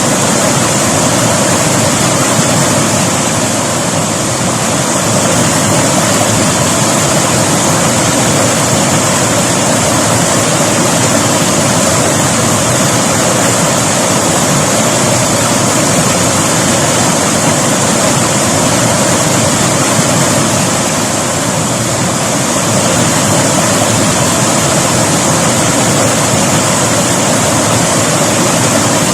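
River water rushing and splashing over rocks, a loud, steady rush that eases slightly twice.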